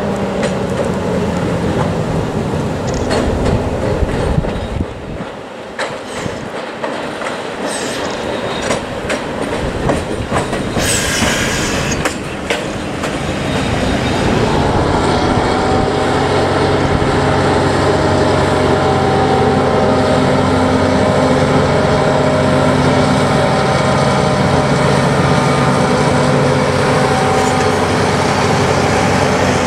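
Rail wagons of a freight train moving, with irregular wheel clicks and clanks, and a brief hiss about eleven seconds in. From about fourteen seconds a diesel locomotive's engine runs steadily close by.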